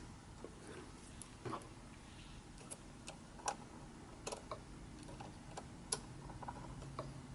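Faint, scattered small clicks and taps, irregularly spaced, of sewing machine parts being handled and fitted back into place during reassembly after cleaning.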